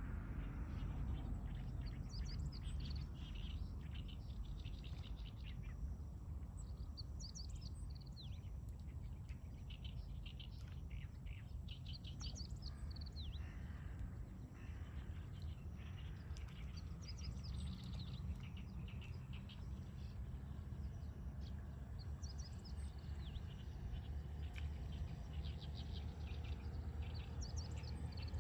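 Small birds chirping and singing in short, repeated high phrases, several calls overlapping, over a steady low rumble.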